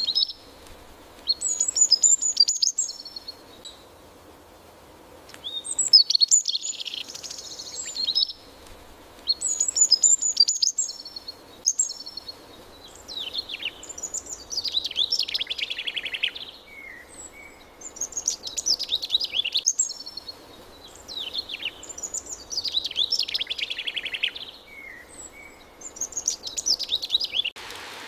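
Songbirds singing in repeated high phrases every few seconds, the later phrases sweeping down in quick trills, over a faint steady background hiss.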